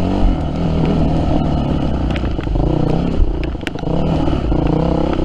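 Yamaha WR250F's single-cylinder four-stroke engine running under load on a trail, its pitch rising and falling as the throttle is worked, easing off about three seconds in before picking up again. A few sharp clicks over the engine sound.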